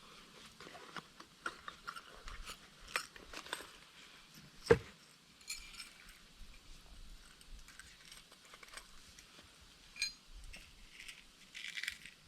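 Light clinks, rattles and taps of small hard objects being handled, with one sharp knock a little under five seconds in.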